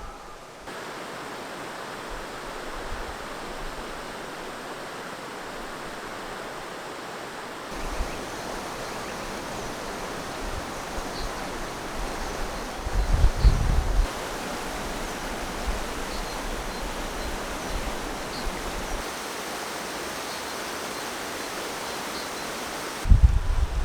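Steady rushing of a valley stream's running water, with a short low rumble of wind on the microphone about halfway through.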